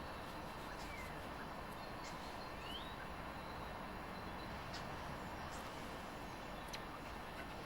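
Faint, steady background noise with a few short, high bird chirps scattered through it.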